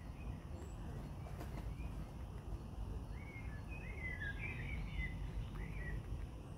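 A small bird chirping in a quick run of short rising and falling notes, from about three seconds in until near the end, over a steady low rumble.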